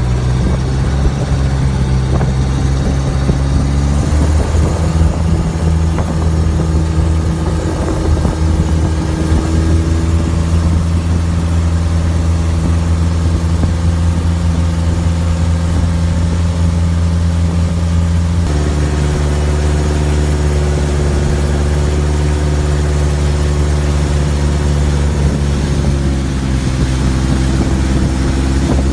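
Motor engine running steadily throughout, with its speed shifting up and down a few times.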